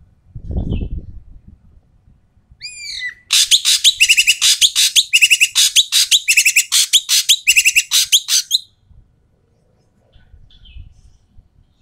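Ekek keling bird calling loudly and harshly: a few short curving whistled notes, then a fast rattling chatter of rough notes lasting about five seconds. A dull thump comes just before the calls begin.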